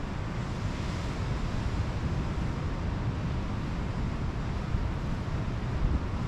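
Ocean surf washing on the beach, with a brighter hiss of wash about a second in, under a heavy low rumble of wind buffeting the microphone.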